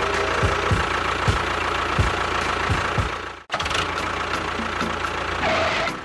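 Tractor engine idling with a steady knocking pulse about twice a second. It cuts out abruptly about three and a half seconds in, then runs on.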